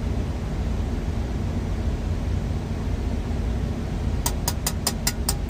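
Steady low rumble and hum inside a truck's cab, typical of the rig idling. About four seconds in comes a quick run of about seven sharp clicks.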